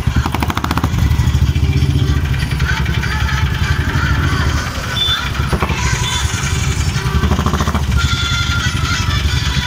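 Motorcycle and other vehicle engines running steadily, a continuous low throb, with voices in the background.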